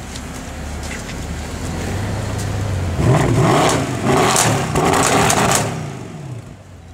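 Mercedes-Benz E63 AMG (W212) V8 idling, then revved hard twice in quick succession while standing still. The revs fall back toward idle near the end.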